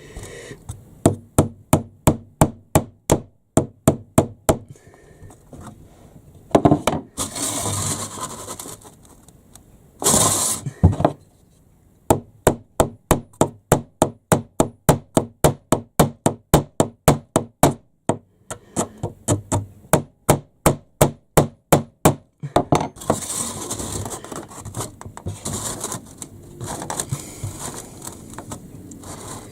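Hammer driving nails into a timber baseboard frame: runs of steady blows, about three a second, with two noisier stretches of handling between the runs.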